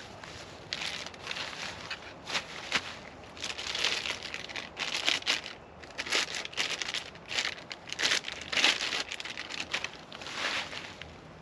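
Packaging being crinkled and rustled by hand while a part is unwrapped, in irregular bursts with pauses between them.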